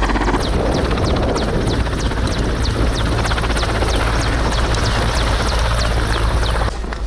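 Helicopter running: a loud, steady engine and rotor noise that drops away abruptly near the end.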